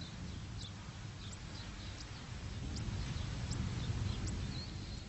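Small birds chirping: short, high chirps scattered through, over a low rumble that swells a little about three to four seconds in.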